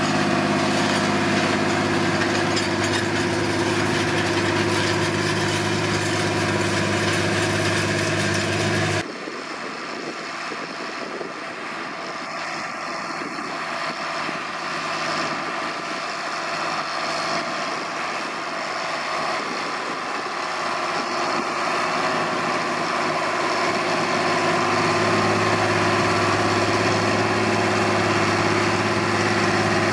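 John Deere 8400 tractor's six-cylinder diesel engine running steadily under load while pulling a disc harrow. About nine seconds in, the sound cuts abruptly to a quieter, more distant take, and the engine grows louder again over the last few seconds.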